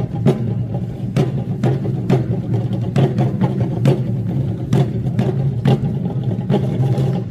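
Percussion ensemble playing a steady beat of sharp drum strikes, about two a second, over a steady low hum.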